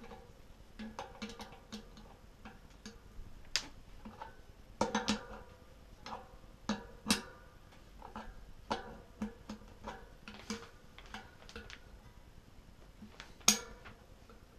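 Irregular metallic taps and clicks of hand tools and parts being worked on a bicycle hub, some with a short ring. The loudest is a sharp click near the end.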